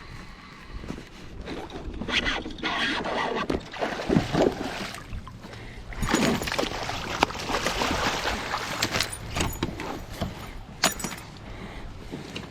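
A bass being landed beside a fishing kayak: irregular splashing of water with scrapes and sharp knocks against the kayak and net as the fish is brought in.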